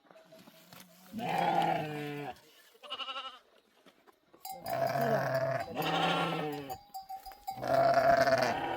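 Sheep bleating, several long calls one after another, some of them quavering.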